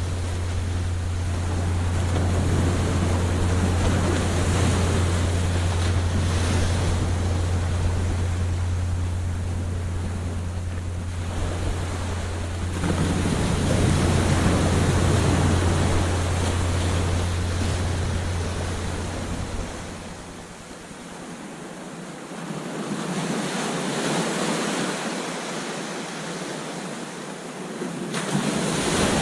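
Ocean surf breaking on a beach, a steady wash of waves that swells and ebbs, with one big surge about halfway through, a lull, and another surge near the end. A low wind rumble on the microphone runs under it and drops away about two-thirds of the way through.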